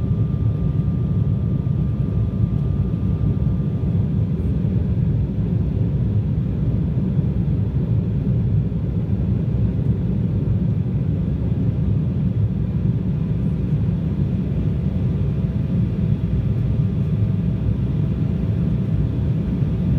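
Embraer jet airliner's steady low rumble of engines and airflow after take-off, even in level throughout, with a faint steady whine above it.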